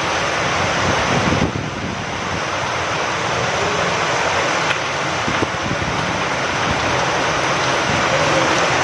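Steady rain falling in wind: a dense, even hiss with a low rumble of wind underneath, easing slightly about a second and a half in.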